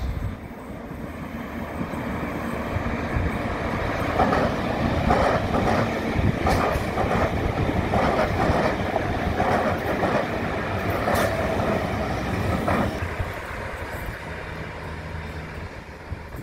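Diesel passenger train passing close by, its wheels clicking repeatedly over rail joints as the carriages go past. The rumble builds about four seconds in, is loudest through the middle, and fades after about thirteen seconds.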